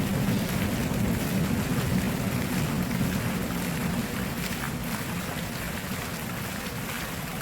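Flowing stream water, a steady deep rush with many small splashes, easing slightly toward the end.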